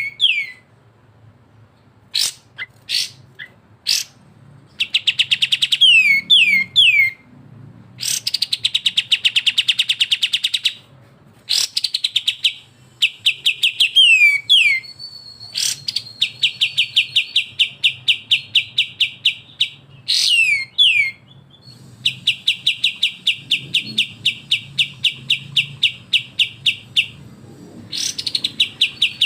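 Bulbul song (kapas tembak and cucak jenggot): long, fast rattling trills of rapidly repeated notes, each run lasting a few seconds, broken by short down-slurred whistles.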